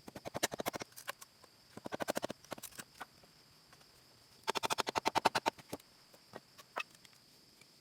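Three short bursts of quick, rasping scraping strokes, about a dozen a second, the longest and loudest about halfway through, with a few single ticks between. A faint steady high insect drone runs underneath.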